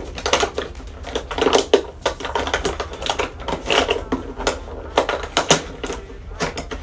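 Packaging being opened and handled by hand: a run of irregular clicks, taps and crinkles of boxes and plastic.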